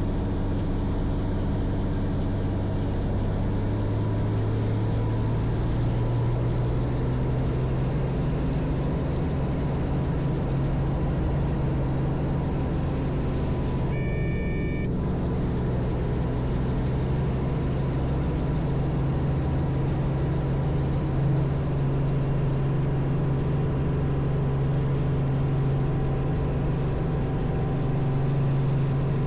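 Robinson R44 helicopter in flight: a steady drone of engine and rotor with low, even tones, which shift slightly upward about six seconds in. A brief high tone sounds about halfway through.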